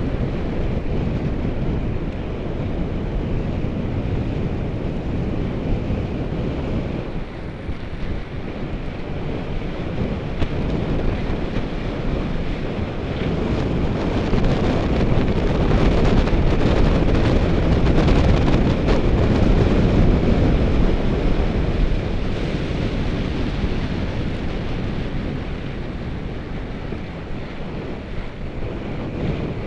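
Wind buffeting the microphone of a camera on a moving bicycle, a dense steady rumble that grows louder for several seconds about halfway through.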